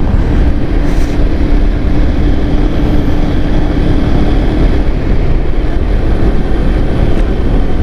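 Motorcycle running at road speed, heard as a heavy, steady rush of wind and road noise on the rider's microphone. A steady hum sits under it and fades out about five seconds in.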